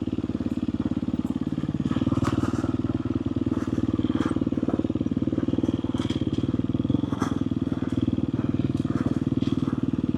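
Four-stroke dirt bike engine running at a fairly steady speed as the bike is ridden, with scattered short clicks and knocks over the top.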